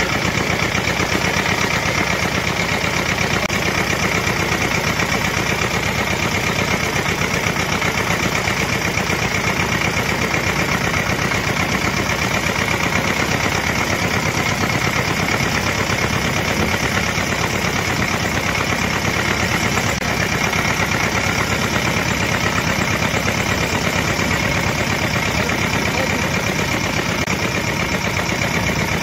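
Engine of a homemade tractor running steadily at an even speed.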